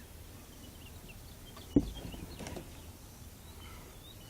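A single sharp knock a little under two seconds in, over small birds chirping repeatedly in short downward notes.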